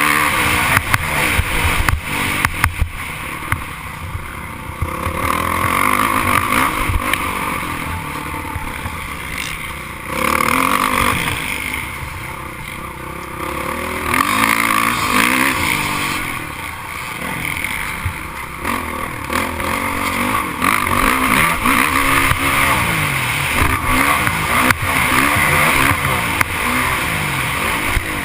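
Motocross bikes racing on a dirt track, their engines revving up and down as they accelerate and shift, swelling louder and fading as they pass.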